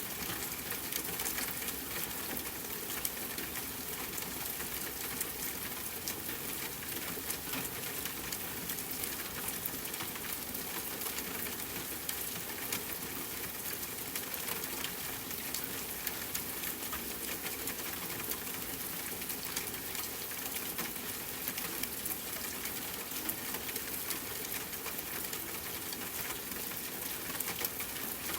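Steady rain falling, mixed with campfire crackle, a dense scatter of small ticks and pops over an even hiss.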